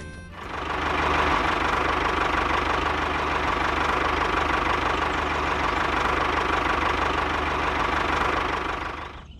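A tractor engine running steadily with a low, even chug. It starts about half a second in and cuts off just before the end.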